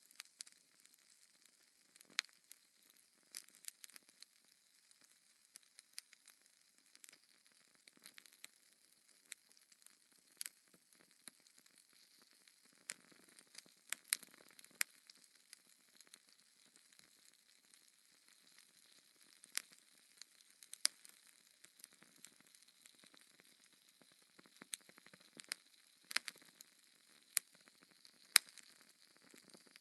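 Fire in a fireplace crackling, with faint hissing and sparse, irregular sharp pops.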